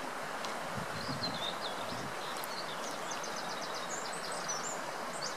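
A small songbird singing a run of quick high chirps and rapid repeated trilled notes over a steady outdoor background hiss.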